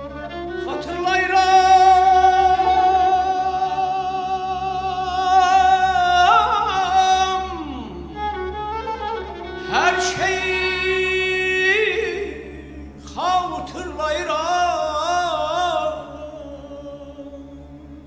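Mugham singing over orchestral strings: long, held vocal notes with slides between them, then a passage of fast, wavering trill ornaments in the voice.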